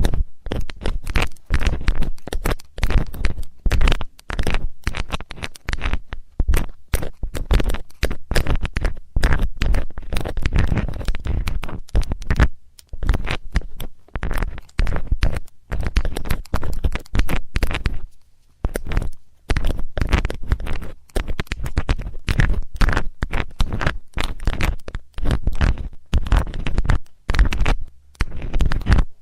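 Metal tool scratching and scraping for ASMR ear cleaning: a dense, fast run of close crackly scratches and clicks, broken by a couple of short pauses.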